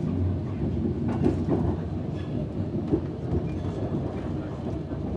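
Moving passenger train heard from inside the carriage: a steady low rumble of wheels on rails, with a few light clicks from the track.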